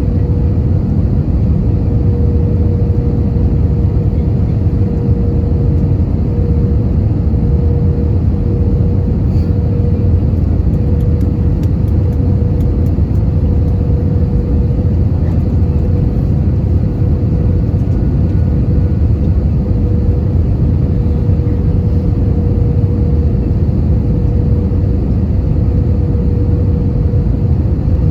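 Airbus A320-200 cabin noise in flight: a loud, steady rumble of engines and airflow with a constant hum running through it.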